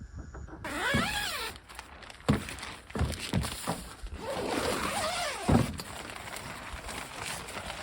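Nylon tent fabric being handled and rustled as a backpacking tent's flysheet is pitched, with swishing rubs and a few dull thuds.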